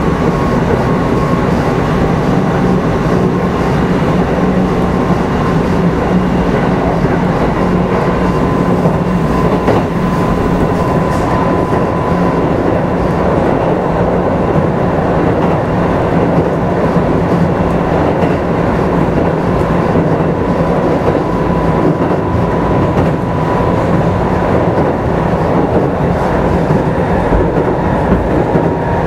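Kintetsu 5211 series electric train running at speed, heard from aboard motor car Mo 5212: a steady rumble of wheels on rail with a thin steady whine.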